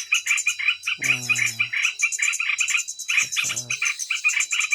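Shrill chirping calls repeating rapidly and evenly, about five or six a second, with a brief man's voice about a second in and again near the end.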